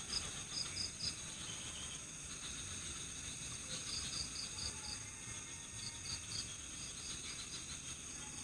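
Night-time chorus of crickets and other insects: a steady, high-pitched shrilling, with short chirps repeated in quick groups of three to five every couple of seconds.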